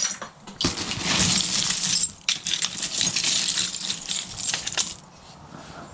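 A pile of small metal finds (bottle caps, coins, keys) rattling and clinking as it is stirred and picked through by hand; the clinking is busiest in the middle and dies down about five seconds in.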